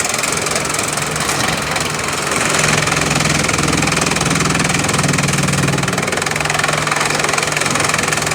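Bamboo crushing machine running steadily: a dense mechanical clatter over a low hum, which grows louder for a few seconds mid-way.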